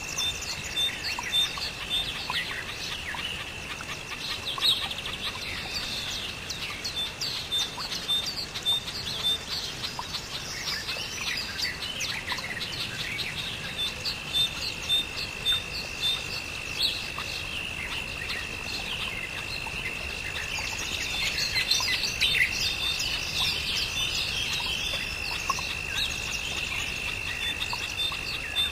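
Several birds chirping and calling, with many short high notes, some repeated in quick even series. Under them runs a steady high-pitched tone.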